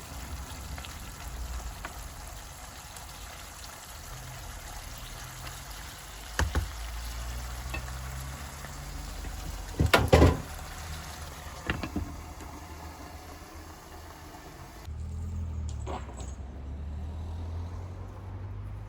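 Meat sizzling in a pan, with a few sharp knocks of utensils, the loudest about ten seconds in. About fifteen seconds in, the sizzle gives way abruptly to a low steady rumble.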